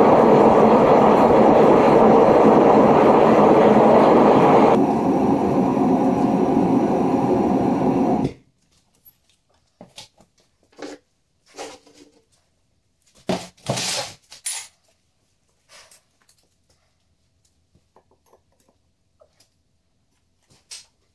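Gas-fired melting furnace burner running loudly and steadily while bullet shells melt in the crucible, a little quieter after about five seconds, then cut off suddenly about eight seconds in. After that come scattered metallic clinks and knocks as the crucible is handled with lifting tongs.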